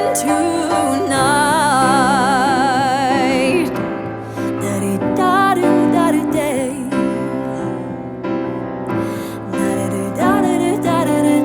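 Ballad with a female voice holding long sung notes with wide vibrato over piano, no clear words; the longest held note fills about the first four seconds.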